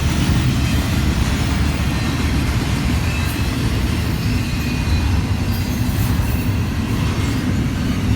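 A Union Pacific freight train's container cars rolling past on the rails, a steady loud rumble of wheels and cars.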